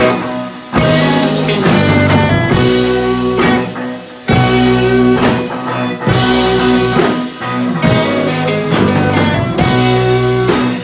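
Live psychedelic rock band playing an instrumental jam: electric guitars with bass and drums, hitting sustained chords about every one and a half to two seconds.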